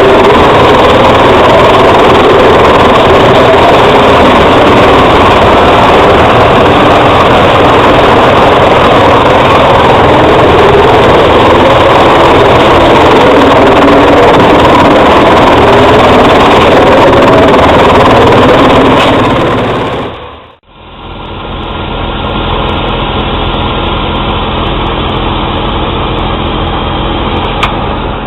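Truck-mounted drum wood chipper, driven by its MAN truck engine, running loud and steady. About twenty seconds in the sound cuts out briefly, and a quieter, steady engine note with an even hum follows.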